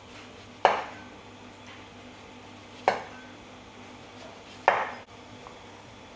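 Kitchenware being set down on a counter: three sharp clatters about two seconds apart, each dying away quickly.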